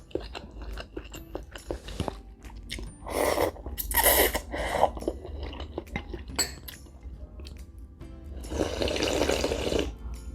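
A person slurping instant noodles in broth in two long slurps, about three seconds in and again near the end, with chewing and small clicks of utensils in between, over soft background music.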